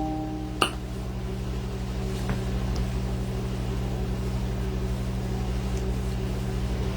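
A steady low hum, with one click under a second in.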